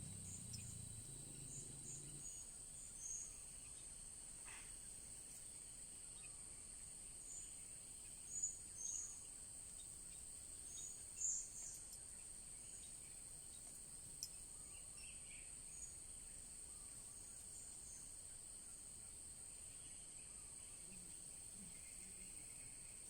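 A steady, faint, high-pitched insect drone, with short high bird chirps now and then, loudest about a third and halfway through.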